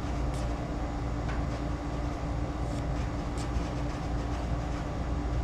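Steady low mechanical hum with one constant tone underneath. Over it come a few faint, light scrapes and clicks from small cleaning brushes pushed through the tubes and passages of an Edelbrock 1406 carburetor.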